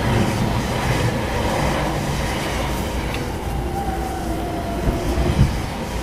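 Train noise inside an E231-series commuter car while an E259 Narita Express train runs past on the adjacent track: a steady rumble of wheels and running gear, a faint whine that drops in pitch partway through, and a couple of low knocks about five seconds in.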